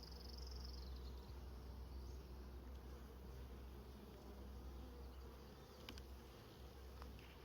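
Honey bees buzzing in a faint, steady drone over an open hive, with one light click about six seconds in.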